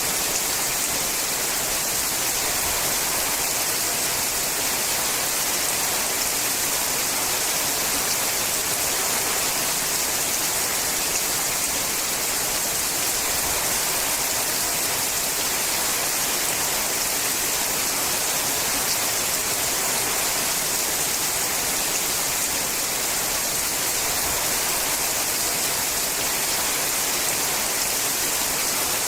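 Steady rain on a sheet-metal roof: a dense, even hiss of drops that does not change.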